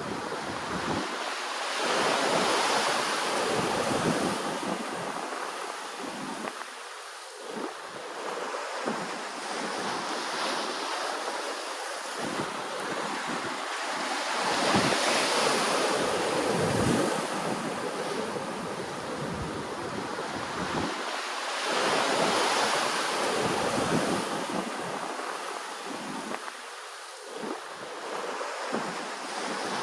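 Ocean waves washing ashore, the surf swelling and fading every few seconds, with some wind noise on the microphone.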